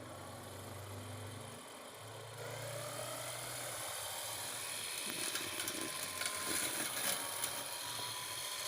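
Homemade solar-powered electric brush cutter running: a steady motor hum that turns louder and hissier about two seconds in as the head cuts into grass, its pitch wavering with the load.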